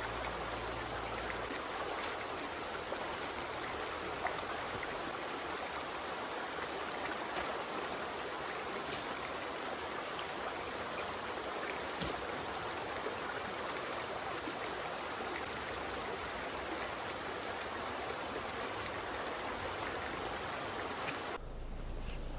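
Steady rush of running water with a few faint clicks, breaking off abruptly near the end.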